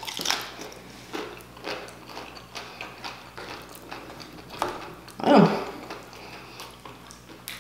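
Close-up crunching of tortilla chips being bitten and chewed, a run of short crisp cracks, with one louder crunch about five seconds in.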